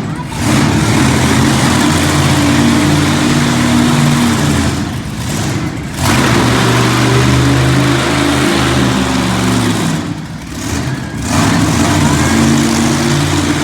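Monster truck engines running hard at high revs, with the throttle briefly let off twice, about five seconds in and again about ten seconds in, before picking back up.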